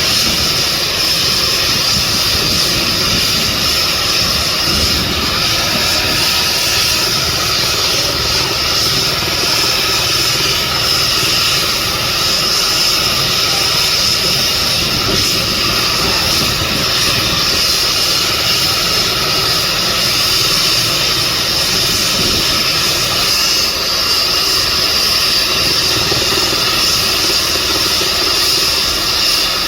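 Helicopter running steadily: a constant high turbine whine over the rushing noise of the engine and rotor.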